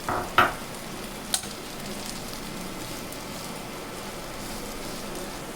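Vegetable and paneer stuffing sizzling in oil in a pan while being stirred, a steady frying hiss. A few sharp utensil knocks on the pan come in the first second and a half.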